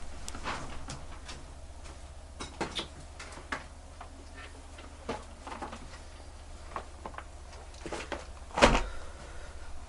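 Scattered light clicks and taps of small metal tools and watch parts being handled on a bench, with one louder knock near the end, over a steady low hum.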